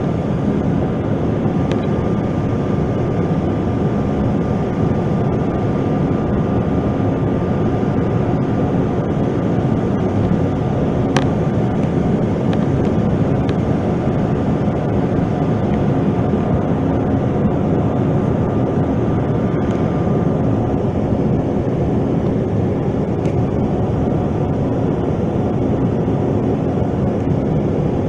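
Steady cabin roar of a SkyWest CRJ-900 regional jet in flight: its rear-mounted turbofan engines and the rush of air. A faint high whine runs under it and fades out about two-thirds of the way through, and there is a single sharp click about halfway.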